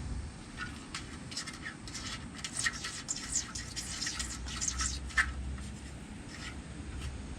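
Kittens scratching and scuffling as they play: quick, irregular scrapes and clicks of small claws, busiest in the middle, with one sharper click a little after halfway.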